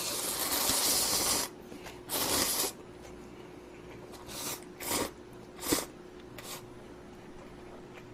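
Noisy, airy slurps of instant budae-jjigae ramen noodles: one long slurp at the start and a shorter one about two seconds in, then four short sucking sounds.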